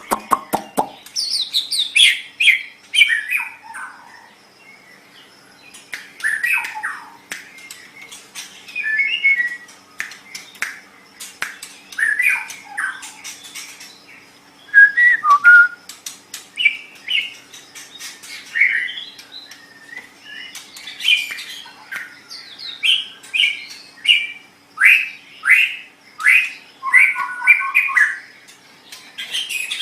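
White-rumped shama (murai batu) singing a long, varied song of whistled phrases, quick downward slurs and sharp clicking notes, with short pauses between phrases.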